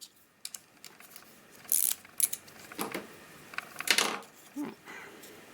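Allen keys and small metal parts of a bar-end mirror being handled on a workbench: scattered clicks, light rattles and short scrapes.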